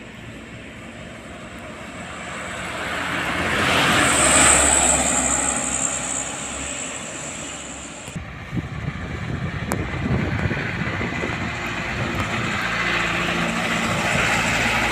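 A truck passing by on the road, its noise building to a peak about four seconds in and then easing off. After an abrupt change around eight seconds, steady road rumble follows with a few sharp knocks.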